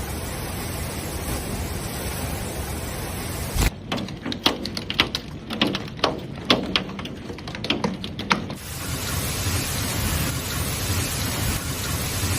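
Steady hiss of heavy rain, broken in the middle by about five seconds of irregular sharp hits: hailstones striking a hard surface. The rain hiss returns after the hits.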